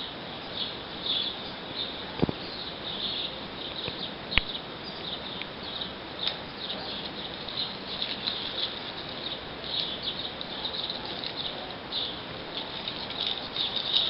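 Dense, rapid high-pitched twittering of small birds, with two sharp clicks about two and four seconds in.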